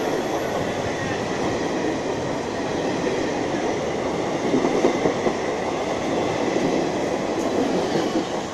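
Passenger coaches of an express train running through a station without stopping, passing close by at speed: a steady rumble and rattle of wheels on the rails that eases slightly near the end.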